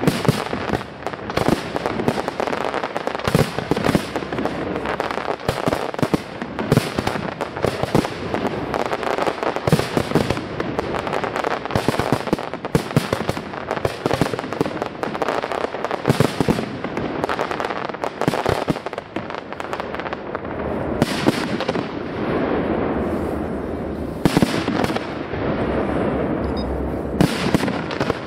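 Aerial fireworks display: a dense, continuous barrage of shell bursts and crackle, with many sharp bangs following one another throughout.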